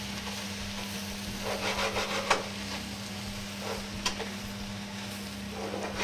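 Diced bread, panceta and sliced boletus sizzling in oil in a steel pot while being stirred with a wooden spoon, with scraping and two sharp knocks, about two and four seconds in.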